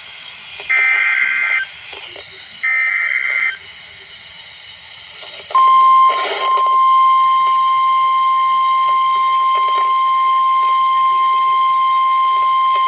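NOAA weather radio alert from a Midland WR-100 receiver. Two short rasping digital data bursts of the EAS/SAME header come about a second apart, then a steady single-pitch warning alarm tone starts about five and a half seconds in and holds. This is the signal that a severe thunderstorm warning is being broadcast.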